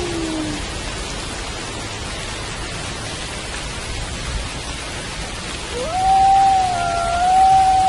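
Steady rainfall with wolves howling: a falling howl fades out in the first half second, and about six seconds in a new howl rises quickly and holds a long, steady note.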